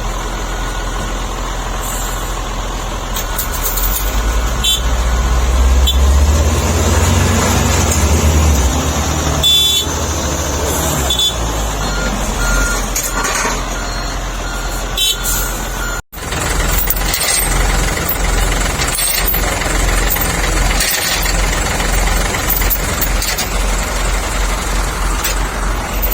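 Truck engine running under load on rough ground, swelling louder for a few seconds early on, with scattered knocks and rattles; the sound drops out for an instant about sixteen seconds in.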